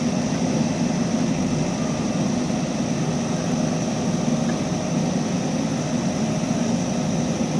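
JCB backhoe loader's diesel engine running steadily at a constant pitch.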